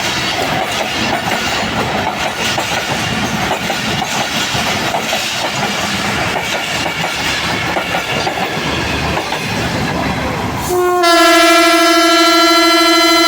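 Passenger train moving off, with steady wheel clatter over the rail joints. Near the end the locomotive's horn starts a long, loud, steady blast, louder than the running train.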